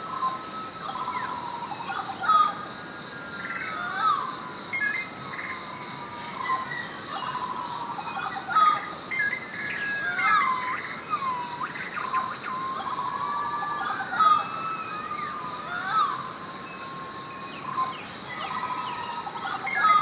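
Forest birdsong: several birds whistling short phrases that slide up and down in pitch, with a few sharper, louder calls, over a steady high insect drone.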